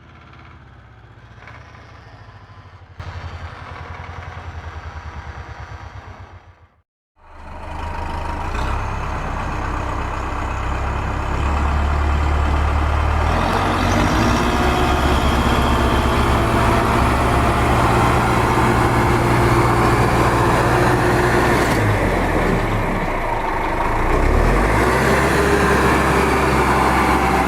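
A vehicle engine running steadily, quieter at first, cutting out briefly about seven seconds in, then running louder for the rest.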